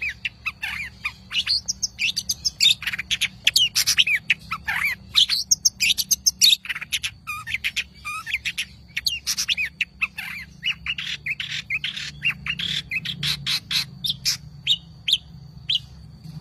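Long-tailed shrike (cendet) singing a fast, varied song of short chirps and sweeping notes in quick succession, stopping shortly before the end.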